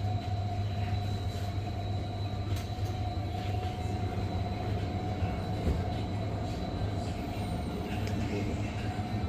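Steady machinery hum in a grocery store: a low drone with a faint steady whine above it and a few faint clicks.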